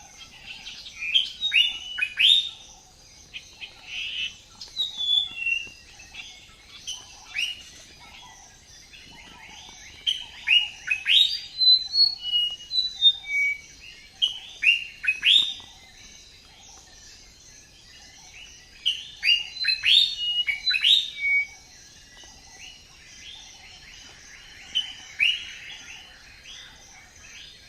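Cockatiels chirping in bursts of short, quick calls that sweep up and down in pitch, with quieter gaps of a few seconds between the bursts.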